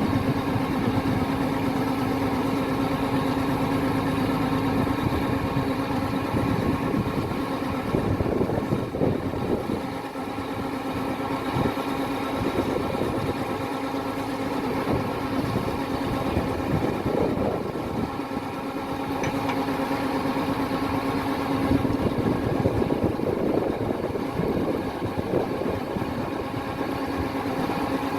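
Kubota DC-105X combine harvester running steadily, its engine giving a constant drone with a strong steady hum, with noisier stretches coming and going on top.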